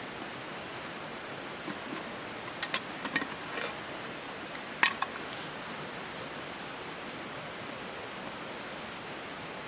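A steady hiss of background noise with a handful of sharp clicks and light knocks between about two and a half and five seconds in, the loudest just before five seconds.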